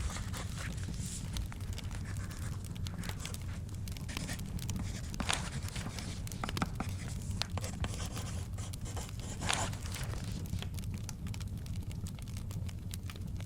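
Book pages being turned, a papery swish about three times, over a crackling fireplace: a steady low rumble with scattered sharp pops and snaps.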